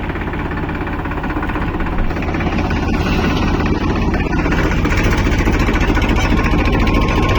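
Heavy diesel engine of a tractor-type machine running steadily with a dense low rumble, getting a little louder about four seconds in. A thin steady high tone starts near the end.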